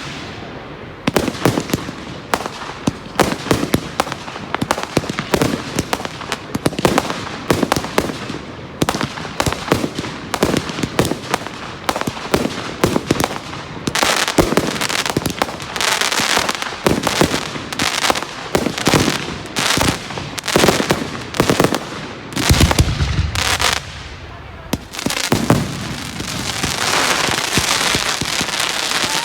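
Fireworks going off in a display: a rapid run of sharp bangs and crackles from exploding shells, with a few heavier booms about 22 seconds in, and a dense crackling near the end.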